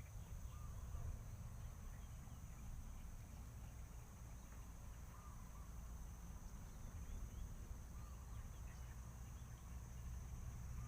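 Faint outdoor ambience: a steady high-pitched hum and a low rumble, with a few short, faint bird calls about one, five and eight seconds in.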